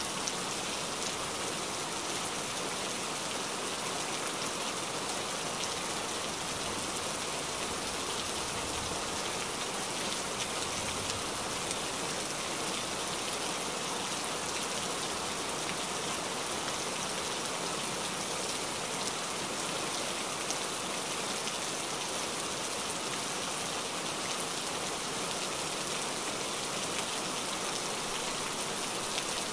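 Steady rain, an even hiss that stays the same throughout.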